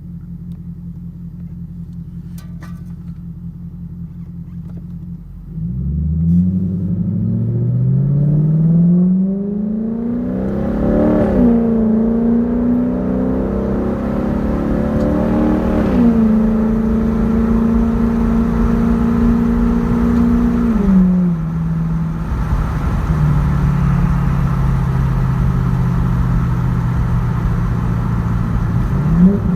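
2007 Infiniti M45S's 4.5-litre V8 idling, then pulling away about five seconds in and accelerating, its pitch climbing and dropping twice as the transmission shifts up. It then settles into a steady cruise, eases off, and revs up briefly near the end.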